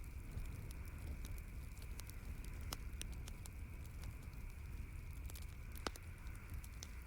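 Wood campfire crackling, with scattered sharp pops over a low steady rumble of the flames; the loudest pops come about three seconds and six seconds in.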